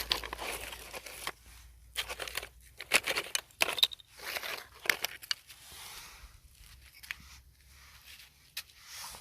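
Irregular crinkling and rustling: short bursts of crisp noise broken by sharp clicks, with quieter gaps between them.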